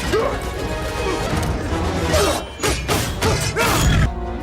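Fight-scene soundtrack: dramatic score with a series of sharp hits and crashes from blows landing, several in quick succession in the second half.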